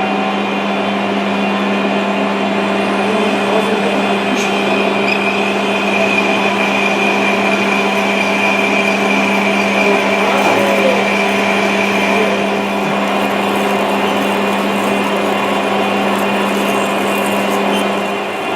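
Metalworking lathe running steadily with a parting-off tool cutting into the turning workpiece; a higher whine comes up about five seconds in and fades again around twelve seconds.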